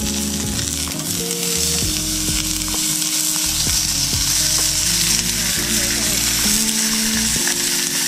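Pieces of meat sizzling steadily as they fry in a small frying pan, with background music playing.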